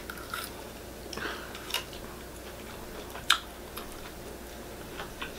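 Two people chewing and eating at a table, with forks clicking against ceramic plates a few times; the sharpest click comes a little past three seconds in.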